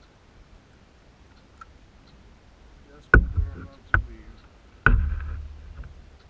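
Three sharp knocks on a plastic kayak's hull, each followed by a low hollow boom that dies away, the third ringing on longest.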